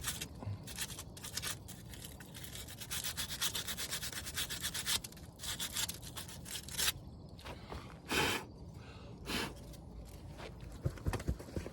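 A brake part being scrubbed clean by hand with an abrasive, no power tools: quick back-and-forth rasping strokes, a fast run of them a few seconds in, then slower single strokes.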